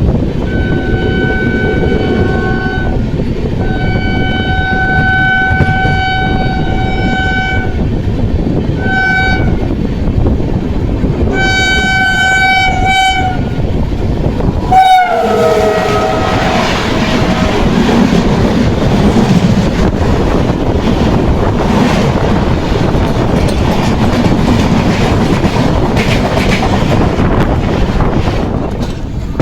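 Train horn sounding a series of long and short blasts over the rumble of a moving train. About fifteen seconds in, a sharp bang, then the horn's pitch drops, and the running noise with clickety-clack carries on.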